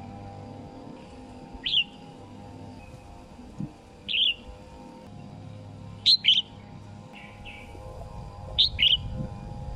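Red-whiskered bulbul calling with short, sharp chirps: single notes about 2 and 4 seconds in, then quick doubled notes about 6 and 8.5 seconds in, over a steady low hum.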